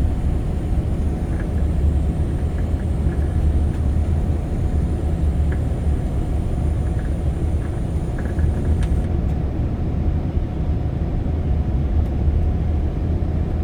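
Steady low rumble of engine and road noise from a moving vehicle, heard from inside the cabin.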